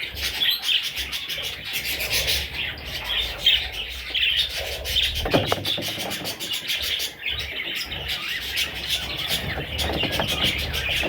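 Budgerigars chirping continuously, many short high calls overlapping.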